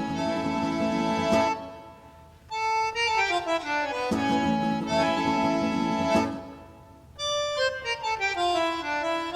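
Accordion music: a lively tune with runs of notes stepping downward and chords underneath, the phrase repeating about every four seconds with brief gaps between phrases.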